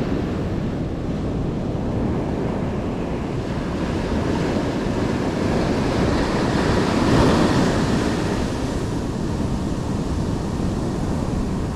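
Ocean surf washing onto the shore, with wind rumbling on the microphone; a wave breaks louder about seven seconds in.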